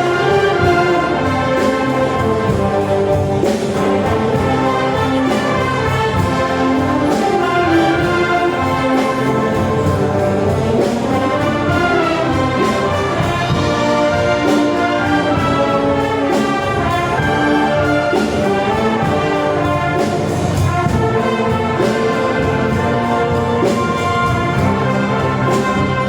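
Brass band playing full ensemble, with trumpets and trombones carrying the melody over a steady percussion beat.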